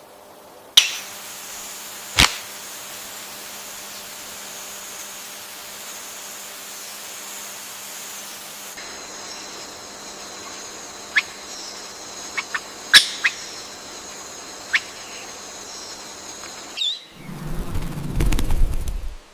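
Wild nature ambience: a steady high insect drone with sharp, short bird chip calls scattered through it. It changes to a different set of steady high tones about halfway. Near the end a loud low rumble lasts a couple of seconds.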